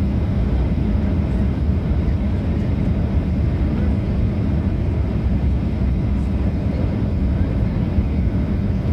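Steady low drone of a jet airliner's engines and airflow heard from inside the passenger cabin.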